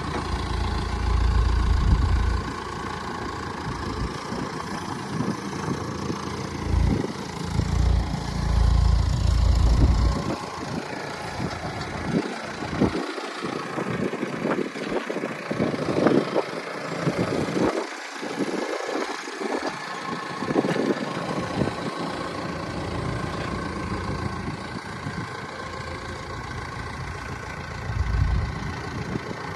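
An engine idling steadily, with gusts of wind buffeting the microphone now and then: near the start, around a third of the way in, and near the end.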